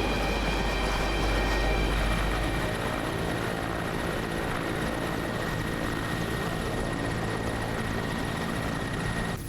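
Helicopter running in flight: a steady high turbine whine over a dense rotor and engine rumble. The deepest rumble eases about a third of the way in, and the whole sound cuts off abruptly near the end.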